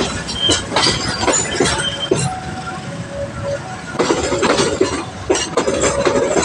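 Train passing over a railway level crossing, with irregular sharp clanks and a few short steady tones over a steady rumble.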